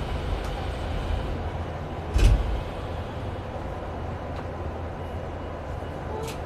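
Tokyu 5000 series electric commuter train heard from inside while running: a steady low rumble of wheels on the track, with one loud knock about two seconds in.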